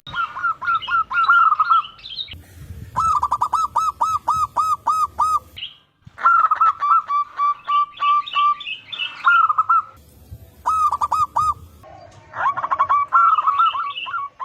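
Zebra doves cooing: repeated phrases of quick, rippling notes, several birds answering one another. The phrases start and stop abruptly several times.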